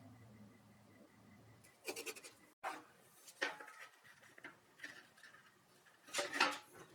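Irregular scraping and rubbing of something being handled at close range, in short bursts about two seconds in, again after three seconds and loudest near the end, with a faint low hum before them.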